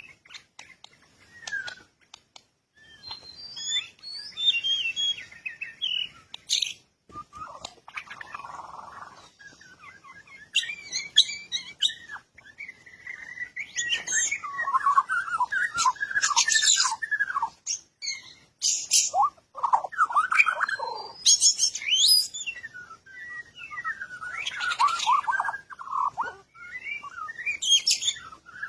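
Bird chirping and calling in repeated bouts of quick, high chirps and trills a few seconds long, with sharp clicks among them.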